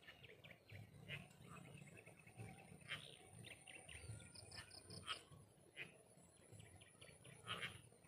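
Faint small birds chirping, many short calls, with a run of four quick high notes about four seconds in. A thin, steady high-pitched tone runs behind them.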